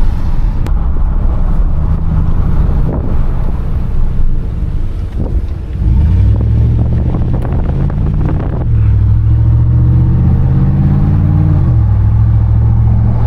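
Chevrolet Silverado pickup with a straight-pipe muffler delete, its exhaust dumped before the bed, running loud while driving. The engine note climbs under acceleration about six seconds in and again a few seconds later, then holds steady, with some wind noise.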